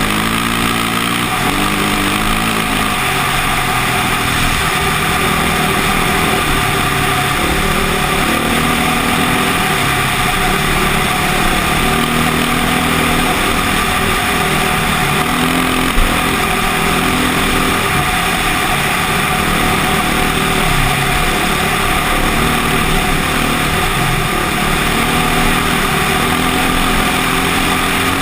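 KTM motocross bike engine running under load, its pitch rising and falling again and again as the throttle opens and closes, with one sharp knock a little past halfway.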